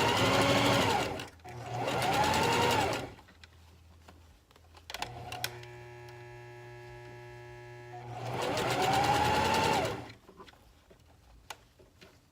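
Electric sewing machine stitching hair wefts onto a wig cap in three short runs, its motor pitch rising as it speeds up and falling as it slows. A quieter steady hum sounds between the second and third runs.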